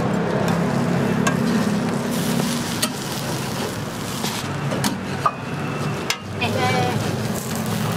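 Egg-and-vegetable omelets sizzling on a flat steel griddle pan, with scattered sharp clicks and scrapes as toast slices are lifted and set down on them.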